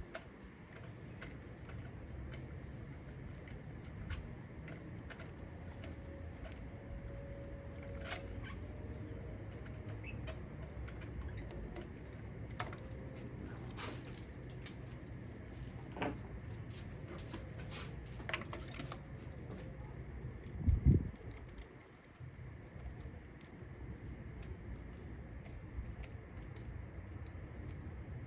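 Light metallic clicks and clinks of hand tools and engine parts being handled during a spark plug change, scattered irregularly over a steady low hum, with one dull thump about three quarters of the way through.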